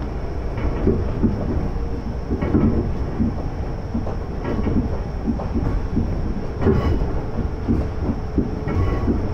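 Former Tokyu electric commuter car running at speed, heard from inside the cabin: a steady running rumble with the wheels clacking over rail joints, several knocks a second apart.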